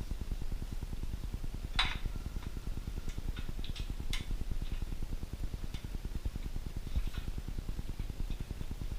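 Scattered light metallic clicks and clinks of parts and tools being handled while routing winch wiring, the sharpest about two seconds in, over a steady low rumble.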